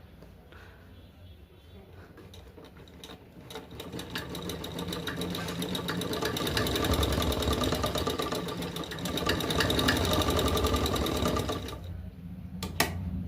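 Sewing machine stitching: a fast, even run of needle strokes that starts about four seconds in, builds up, and stops suddenly near the end, followed by a single click. It is a test run of the stitch just after the bobbin and shuttle have been threaded.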